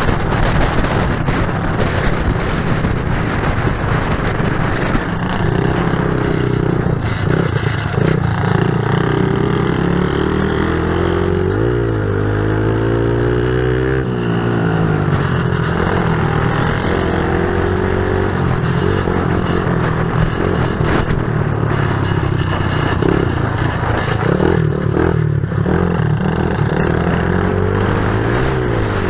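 Pit bike engines revving up and down as the bikes are ridden, the pitch rising and falling with the throttle. Around the middle, two engines are heard at once at different pitches.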